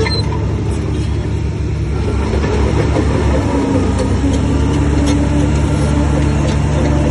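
Heavy diesel engine of a bulldozer running steadily under load, a little louder from about two and a half seconds in.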